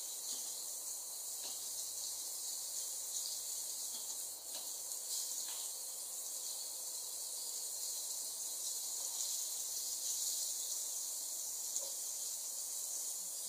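Masala-coated fish slices shallow-frying in hot oil: a steady, even sizzle with a few faint spatter ticks.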